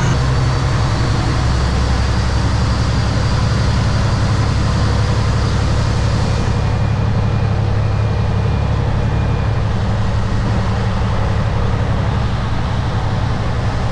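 Kenworth W900 semi truck's diesel engine running steadily at low speed, heard inside the cab as a steady low drone with road noise over it. The highest part of the hiss drops away about halfway through.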